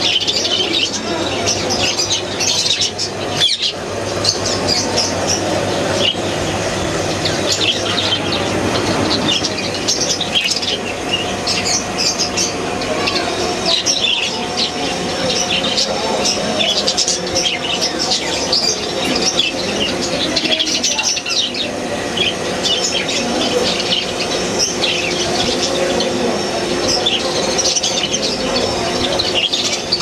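Many caged birds chirping and calling at once: a dense, continuous chorus of short, high calls overlapping each other.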